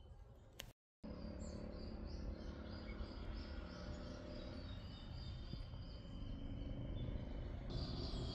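Outdoor background ambience: a steady low rumble with a bird chirping in a fast, even series of short high notes, about three a second. The sound drops out completely for a moment about a second in.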